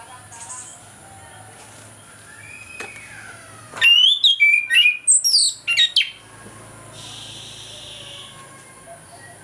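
Chestnut-capped thrush (anis kembang) singing in full song: a loud burst of quick, varied whistled phrases about four seconds in, lasting some two seconds, with fainter calls before and after.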